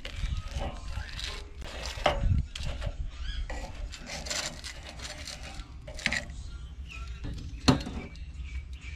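Several sharp knocks and clatter, the loudest near the end, with an indistinct voice in the background.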